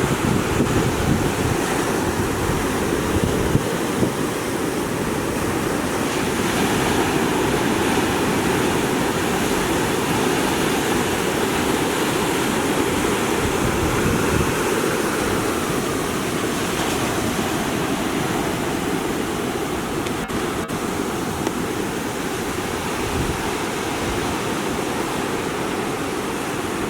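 Heavy surf from typhoon swell breaking and washing on the shore, a continuous rushing roar of waves, with wind buffeting the microphone.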